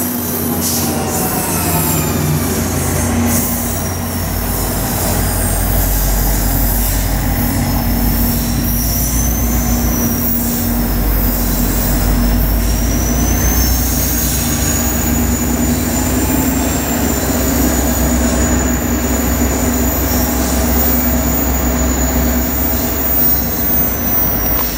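Train rolling past with steel wheels squealing on the rail, a high wavering whine over a steady low rumble.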